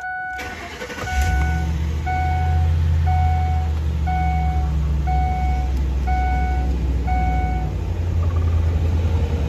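Ford Explorer engine starting about a second in and then idling, while a dashboard warning chime beeps steadily about once every 0.8 s and stops near the end.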